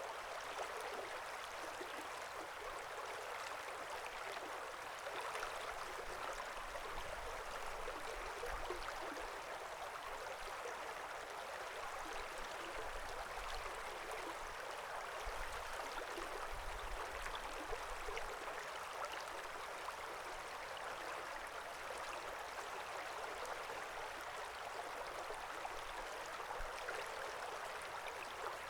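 Small forest creek babbling and splashing steadily over stones.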